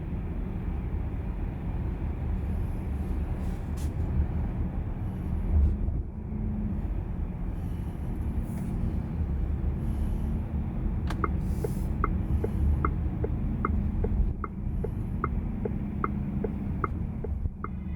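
Steady low road and tyre rumble from the Volkswagen ID.4 electric car driving. About eleven seconds in, a turn-signal indicator starts ticking evenly, two to three ticks a second.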